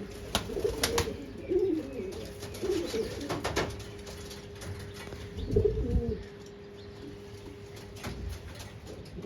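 Domestic fancy pigeons cooing, a series of low coos, with a few sharp clicks scattered among them and a faint steady hum underneath.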